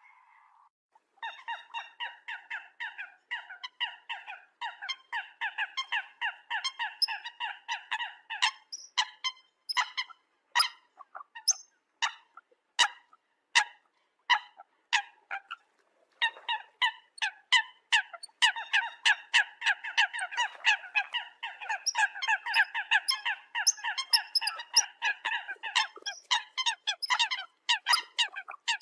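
Eurasian coot calling in rapid series of short repeated notes. The calls start about a second in, thin out to single spaced calls in the middle, then come in a dense run again near the end.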